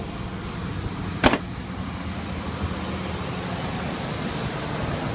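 Chevy 4.3-litre V6 engine in a 1988 pickup idling steadily, with one sharp click about a second in.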